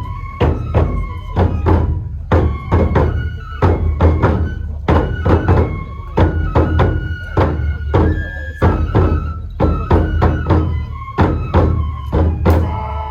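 Traditional kenbai sword-dance music: a melody of held, stepping tones, typical of a bamboo flute, over a steady beat of drum strokes two to three times a second.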